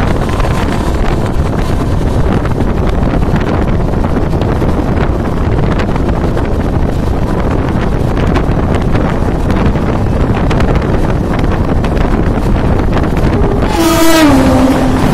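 Wind rushing over the microphone at the open door of a fast-moving passenger train, over the steady rumble of the wheels on the track. About 14 seconds in, a train horn sounds briefly and drops in pitch as an oncoming train closes in to pass.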